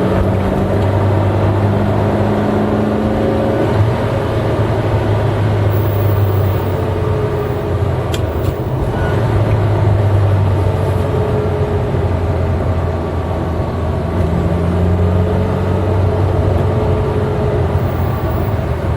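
Eight-cylinder car engine running while driving, a steady drone whose pitch holds fairly level with small rises and falls and a brief dip about four seconds in.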